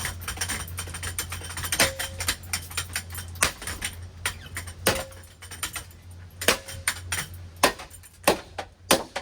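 Running Hunter ceiling fan being struck with a golf club: rapid metallic clattering and knocking, with a few harder hits that ring briefly. The motor's steady hum fades out about three-quarters of the way through.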